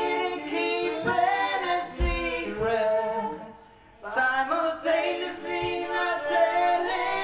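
Live band voices singing together in harmony, sustained sung notes that glide between pitches and break off briefly a little past halfway, with a low drum thump about two seconds in.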